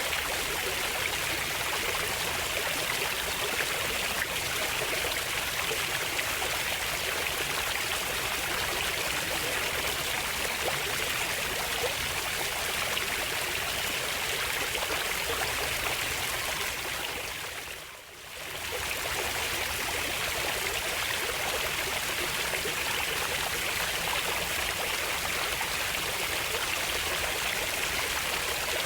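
Steady rushing of a stream's running water. About eighteen seconds in it briefly fades down almost to nothing and swells straight back up.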